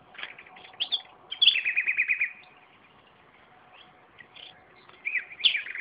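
Nightingale singing: short phrases of whistles and chirps, one of them a rapid run of repeated notes about a second and a half in, then a pause of a couple of seconds before the next phrase starts near the end.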